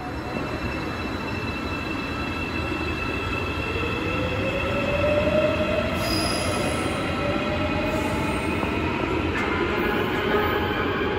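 AREX electric train running through the station and growing steadily louder, with a rising whine and wheel noise. About nine seconds in, the station's chiming train-approach melody starts up over it.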